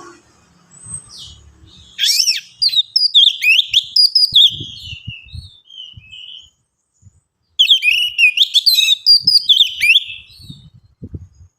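Orange-headed thrush singing: two bouts of rapid, varied whistled phrases, the second beginning about two-thirds of the way through.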